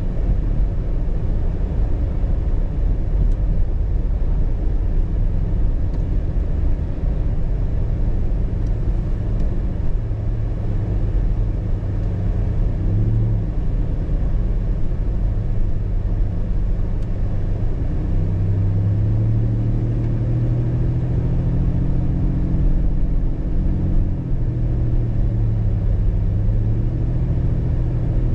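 A car driving, with a steady low rumble of road and engine noise. The engine note rises and shifts in pitch about halfway through and again through the second half.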